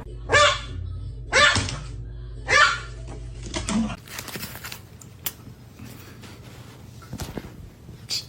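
Three short, loud animal calls about a second apart, each falling in pitch, over a low hum; after a sudden change about four seconds in, only scattered clicks and knocks.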